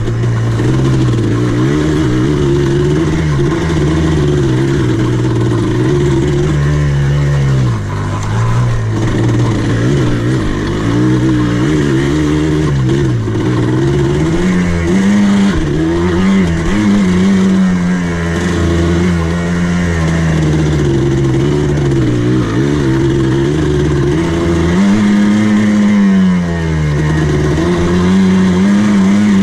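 Buggy engine running on and off the throttle, its pitch rising and falling repeatedly as it drives over the dirt course, heard from the driver's seat.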